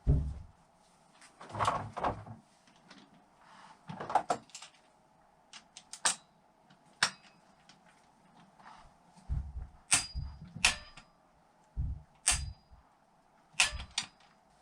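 Metal engine parts and hand tools being handled on a workbench during engine reassembly: irregular clicks, taps and knocks, some with a dull thud and a few with a short metallic ring.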